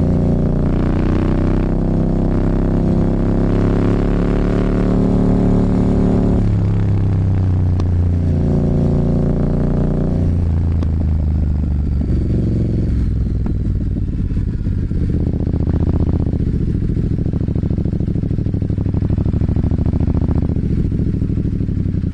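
Motorcycle engine running under way, its pitch stepping up and dropping back several times in the first half, then settling into a lower, throbbing run.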